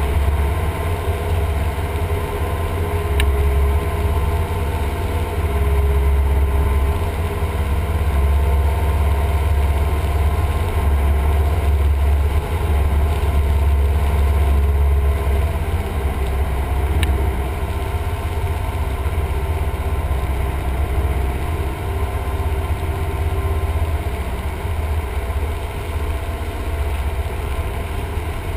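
Cessna 172M's four-cylinder Lycoming engine and propeller droning steadily, with a couple of faint clicks.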